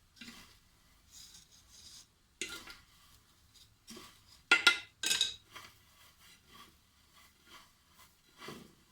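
Kitchen handling noises: dry pasta being rustled and mixed with oil, scattered scrapes and clicks, and a couple of sharp clinks of a metal pot or dish about halfway through.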